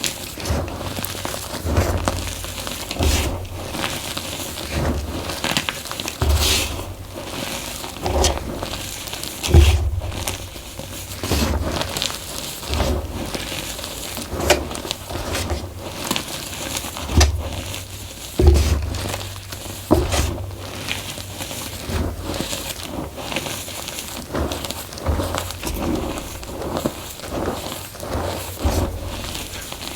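Soft blocks of gym chalk being crushed and crumbled by hand in a bamboo bowl: a steady run of irregular crunches and crackles, with frequent dull thumps as the pieces press against the bowl.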